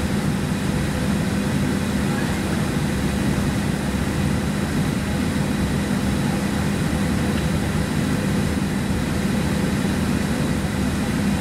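Steady ventilation hum in the cabin of a Boeing 737-700 parked at the gate: an even, unbroken drone with a few faint steady tones.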